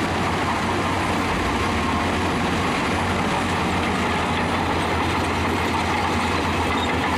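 Heavy diesel engine of a bulldozer running steadily with a low hum, starting and stopping abruptly as an edited-in sound effect.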